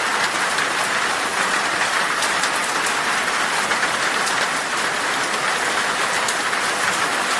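Heavy rain falling steadily on glass: a dense, even hiss with scattered sharper drop taps.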